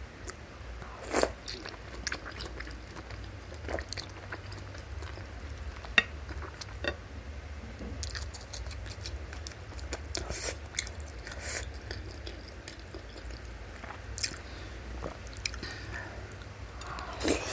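Close-miked chewing and biting of bakso: beef tendon meatballs and fatty beef pieces, with wet squishes and sharp little clicks coming at irregular moments and a louder run of chewing near the end. A steady low hum sits underneath.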